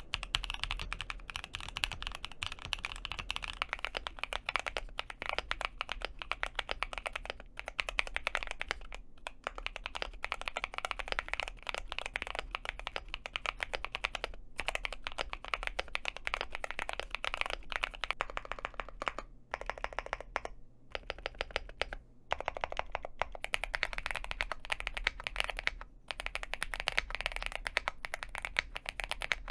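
Fast, continuous typing on mechanical keyboards: the end of a Black Diamond 75 test, then a Cidoo V75. Keystrokes come in quick runs with a few short breaks, the longest about two-thirds of the way through.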